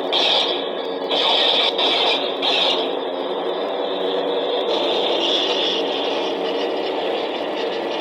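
Electronic lightsaber toy humming steadily from its built-in speaker, with about four sharp blaster-deflection 'flash' effects in quick succession in the first three seconds and a longer crackling burst around five seconds in.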